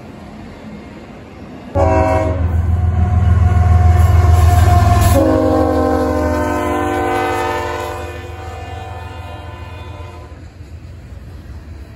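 Diesel locomotive air horn sounding one long blast of about six seconds over a low train rumble. Its chord drops in pitch partway through, and the horn then fades away.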